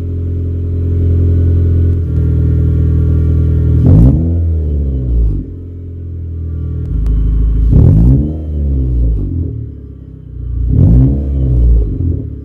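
Honda City engine breathing through a full free-flow exhaust with the catalytic converter removed. It idles and is revved three times, about every three to four seconds, and each time the pitch jumps up and falls back to idle.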